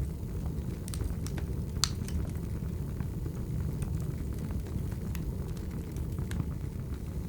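Wood fire crackling: a steady low rumble with scattered sharp pops and snaps, the loudest a little under two seconds in.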